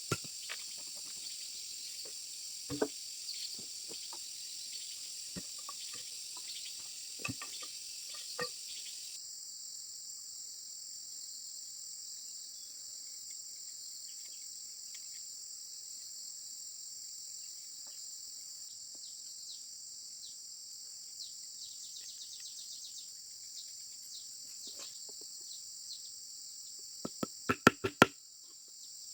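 Insects chirring steadily at a high pitch, with a few scattered taps early on and a quick run of sharp knocks near the end.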